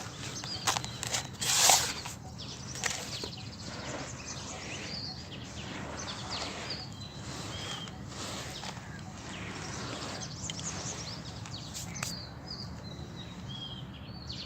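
Dry sand-cement chunks being crushed and crumbled, throwing off dust: a few sharp crunches in the first two seconds, the loudest just under two seconds in, then softer continuous crumbling.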